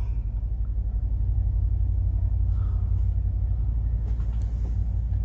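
Semi truck's diesel engine idling: a steady low rumble with a fast, even pulse.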